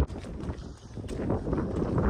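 Irregular walking footsteps, a few short knocks a second, under low wind buffeting on the microphone.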